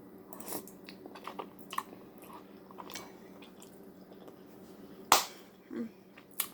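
Close-up mouth sounds of someone eating soup: quiet chewing with small wet clicks and smacks, and one sharper click about five seconds in.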